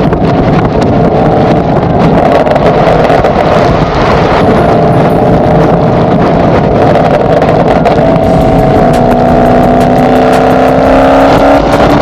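2022 Camaro SS 1LE's 6.2-litre LT1 V8 running loud through its exhaust under hard driving. Its pitch climbs steadily over the last few seconds as it pulls through a gear.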